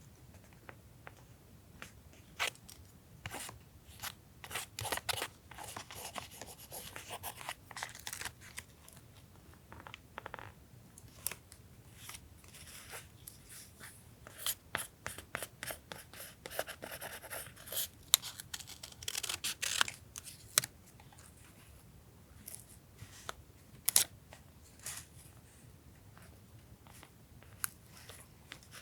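Paper collage work at a desk: paper cut with scissors and handled, giving irregular sharp snips and clicks with short rustles in between.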